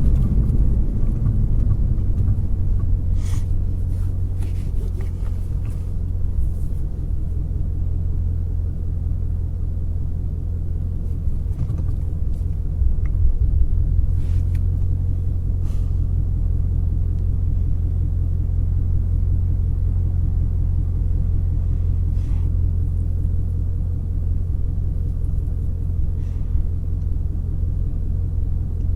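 Shelby GT350R's 5.2-litre flat-plane-crank V8 running at a steady low engine speed: a deep, even rumble with no revving, and a few faint clicks here and there.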